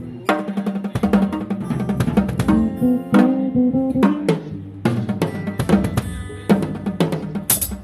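Drum kit played with bass drum and snare hits over guitar and bass notes, ending in a burst of loud, bright hits near the end.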